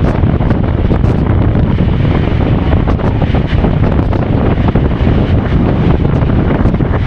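Strong wind buffeting the microphone: a loud, steady rush, heaviest at the low end.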